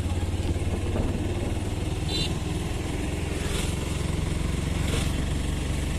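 Small vehicle engine running steadily while riding along the road, with a short high beep about two seconds in.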